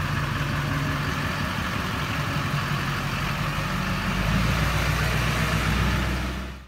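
A vehicle engine running steadily, growing louder and deeper about four seconds in, then fading out quickly at the end.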